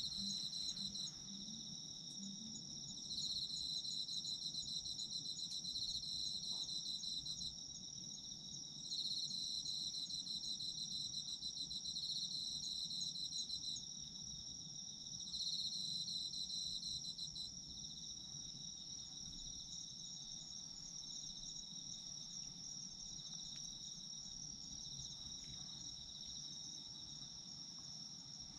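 Autumn insects singing together: one high, steady, unbroken trill, and a second insect chirping in rapid pulses in bursts of a few seconds, four times, growing fainter in the second half.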